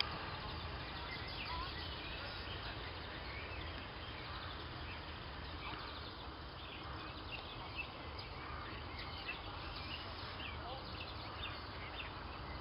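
Small birds chirping in short scattered calls, more of them in the second half, over a steady low rumble of background noise.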